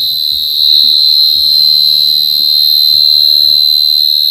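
Cricket calling close by: a loud, unbroken high-pitched trill held steady. It is a calling cricket of the kind hunted by tracking its song to the burrow.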